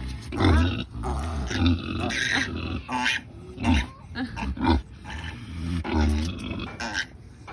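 Pigs calling: a sow's deep, short grunts mixed with the piglets' high-pitched squeals, coming in quick, irregular bursts.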